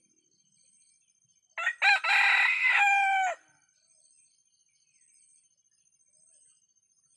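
An ayam kampung (Indonesian village chicken) rooster crowing once: a few short broken notes, then a long held note, about two seconds in all.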